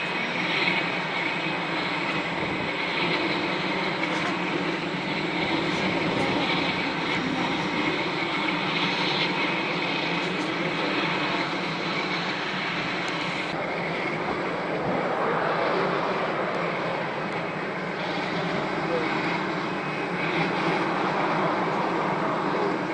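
Boeing 737-800's CFM56 turbofan jet engines running, a steady, even jet noise with a high whine.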